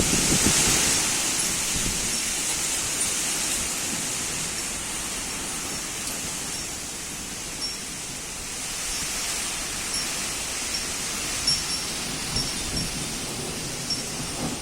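Thunderstorm: steady rain, with a low rumble of thunder swelling right at the start and fading over the next few seconds. Short high pings are scattered through, more of them near the end.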